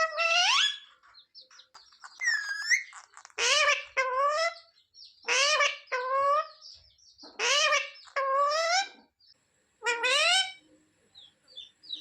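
Pet parrot vocalizing in a string of about six short, shrill calls with gaps between them, several rising in pitch.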